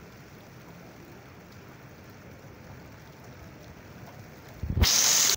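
Heavy rain falling on a flooded street, a steady even hiss. Near the end a much louder rush of noise cuts in for about half a second and stops abruptly.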